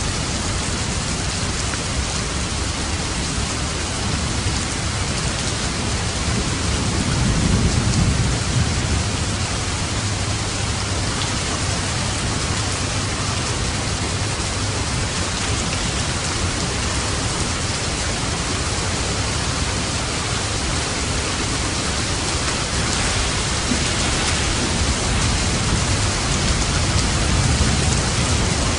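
Steady heavy rainfall, a dense even hiss of drops. A low rumble of thunder swells about seven seconds in and again near the end.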